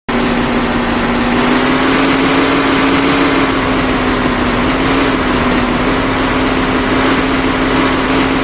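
Engine running at a steady speed, a constant even hum that starts suddenly.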